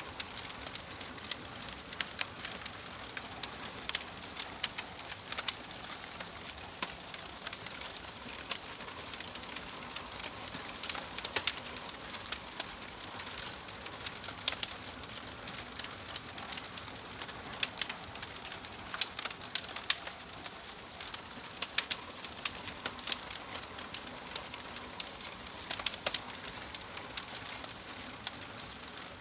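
Wood fire in a fireplace crackling: irregular sharp pops and snaps, a few every second, over a soft steady hiss.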